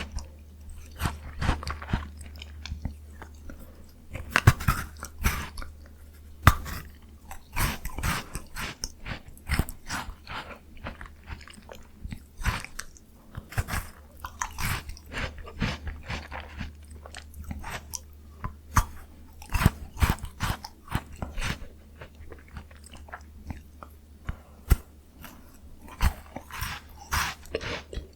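Close-miked biting and chewing of frozen Jaws Bar ice cream: crisp, irregular crunches and wet mouth sounds.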